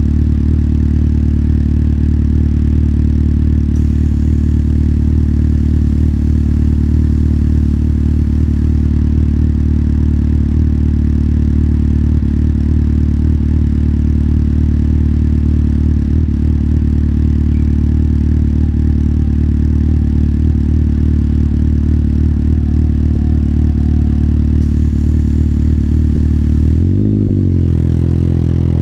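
Motorcycle engine idling steadily. Near the end it gives a quick rise and fall in pitch, then revs up with a rising pitch as the bike pulls away.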